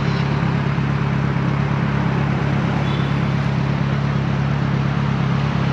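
Kawasaki Versys 1000 LT's inline-four engine running at a steady pitch under an even rush of road noise.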